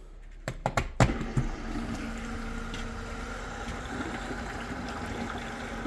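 A few clicks, then a small pump sitting in a bucket starts about a second in and runs with a steady hum. It is circulating descaler solution through the tankless water heater to flush out scale.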